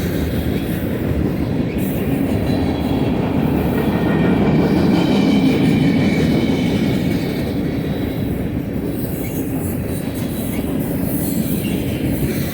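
Freight cars of a long BNSF manifest train rolling past: a steady rumble of steel wheels on rail with a faint high wheel squeal, easing off slightly near the end.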